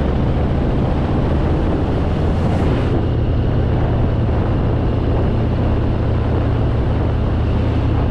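Harley-Davidson Fat Boy's V-twin engine running steadily while riding, with wind rushing over the microphone.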